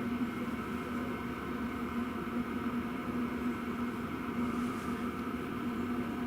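Diesel parking heater running steadily through chained exhaust silencers: an even drone with a steady low hum, and a very fine hiss from exhaust leaking at one of the silencer joints.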